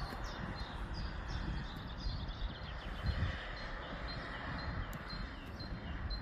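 Small birds chirping in a quick series of short, high notes, about two to three a second, over a steady low rumble.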